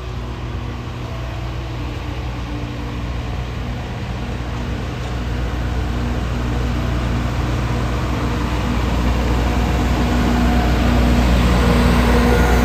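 Alishan Forest Railway train running: a steady low rumble that gradually grows louder, with a faint tonal hum above it.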